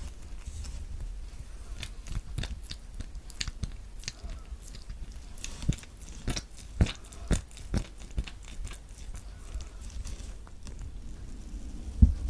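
Kiwi fruit being squished by hand: a run of short crackling clicks, with a few louder pops between about six and eight seconds in and a heavier thump near the end.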